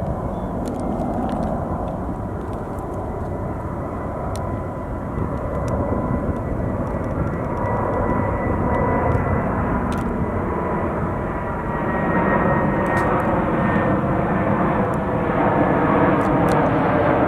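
Jet airliner engines: a steady high whine over a broad rushing noise that grows louder as the plane comes closer.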